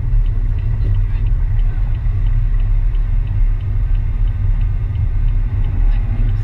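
Steady low rumble of a car driving, tyre and engine noise heard from inside the cabin. A faint, regular ticking runs through it about three times a second.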